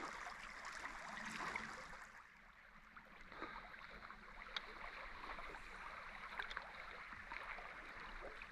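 Faint steady rush of flowing river water, with a few small ticks and a brief lull about two seconds in.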